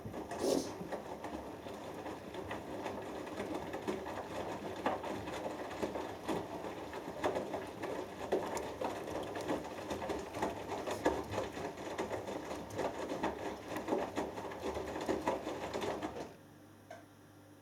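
Hoover Dynamic Next washing machine drum turning through a cotton wash, the wet laundry tumbling and sloshing with irregular knocks and clicks. It stops abruptly about a second and a half before the end, leaving a low hum.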